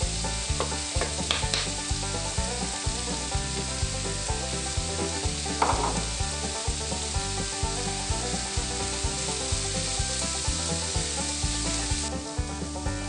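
Diced onions and red bell pepper sizzling steadily as they fry in a pan, with a few clicks and scrapes as the pepper goes in and the pan is stirred with a wooden spatula near the end.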